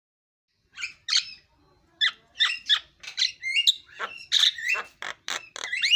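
Javan myna singing: a rapid run of harsh squawks mixed with short whistled notes. It starts about a second in, after a brief silence, and grows busier from about two seconds in.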